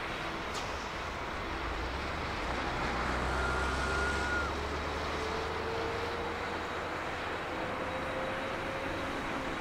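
Jet engine noise from a Boeing 777-300ER after takeoff: a steady broad rush with a low rumble, a little louder around the middle.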